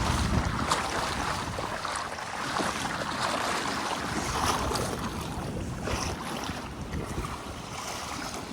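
Water splashing and lapping around a kayak on a lagoon, with wind on the microphone.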